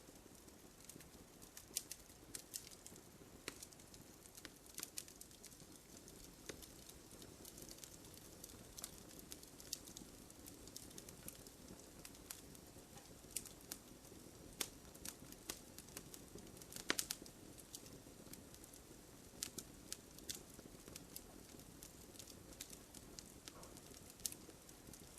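Wood fire crackling, with scattered sharp pops and snaps over a faint low hiss of burning; the loudest pop comes about two-thirds of the way through.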